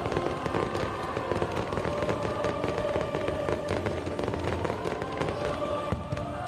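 Fireworks going off in a display, a dense run of crackles and pops.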